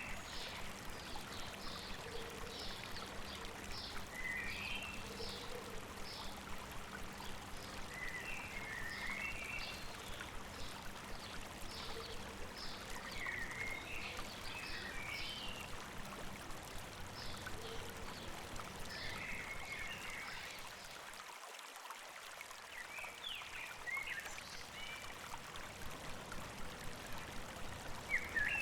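A stream running steadily, with small birds chirping over it: quick repeated high chirps and short warbling phrases throughout, and a brief dip in the water's low rumble a little past the middle.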